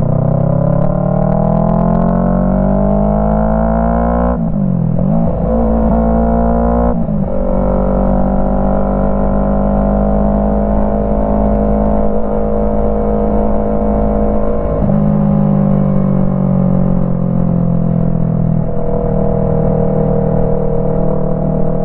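Yamaha MT-03's parallel-twin engine through a full Jeskap exhaust, under way. It accelerates with rising pitch for about four seconds, drops and picks up again through a gear change, then holds steady cruising revs with small shifts in pitch later on.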